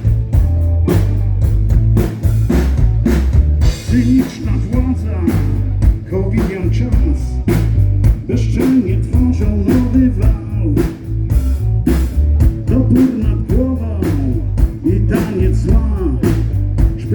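Live rock band playing a passage without sung words, with a drum kit keeping a steady beat under bass and guitar.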